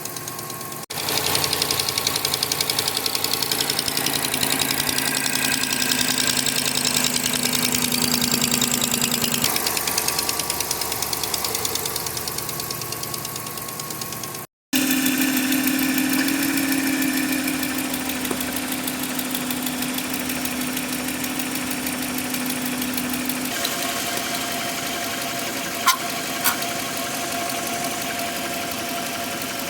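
Jeep Grand Cherokee engine idling with a rapid, steady ticking that keeps pace with the engine, briefly cut off about halfway through.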